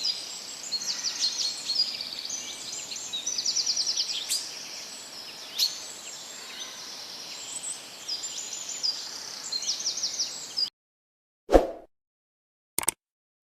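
Several birds chirping and singing, with trills of quick repeated notes, over a steady outdoor hiss. The sound cuts off suddenly near the end, leaving silence broken by two brief clicks.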